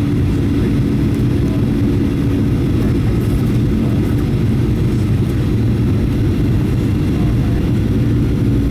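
Steady cabin noise of a Boeing 737-800 in flight: a loud, even rumble of engines and rushing air with a steady low hum, heard from inside the cabin.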